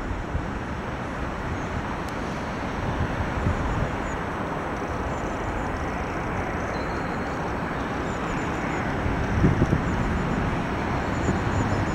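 Boeing 777-200 twin jet engines at takeoff power during the takeoff roll: a steady, broad rumbling roar of jet noise.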